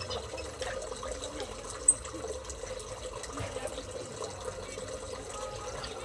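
Small aviary birds: one short, sharp, high chirp about two seconds in, with faint twittering over a steady watery hiss.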